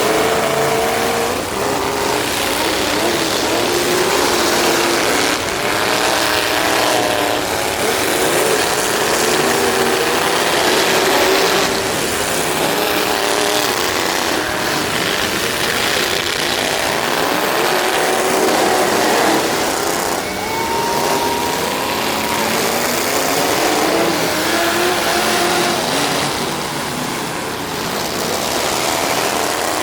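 Demolition derby truck engines running and revving, their pitch rising and falling over a steady loud wash of noise.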